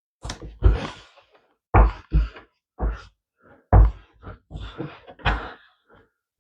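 About a dozen irregular knocks and thumps of oak pieces being handled and set down on a workbench while they are taped together.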